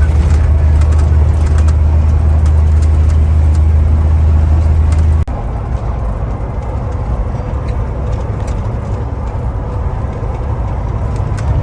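Semi truck on the move, heard from inside the cab: a steady low engine drone with road noise. About five seconds in it cuts off abruptly and a lighter, even road noise carries on.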